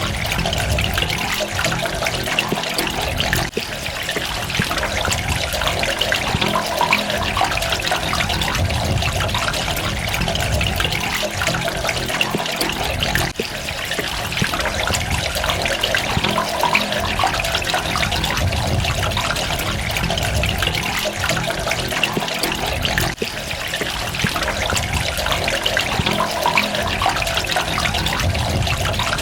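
Running water trickling and splashing steadily, with a brief dip in level about every ten seconds.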